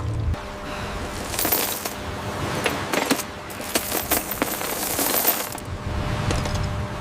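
Gold coins clinking and jingling against each other, a quick irregular run of small metallic clicks.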